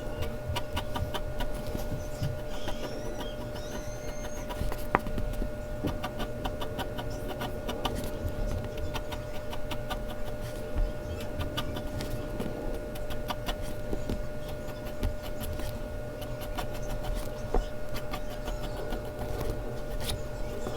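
Mechanical pencil scratching and ticking on Bristol paper in quick short strokes, with a few louder taps, over a faint steady electrical hum.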